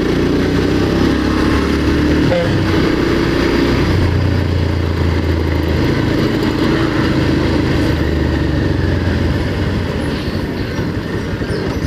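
Motorcycle engine running steadily at low riding speed, heard from the rider's own bike, with wind and road noise over the microphone.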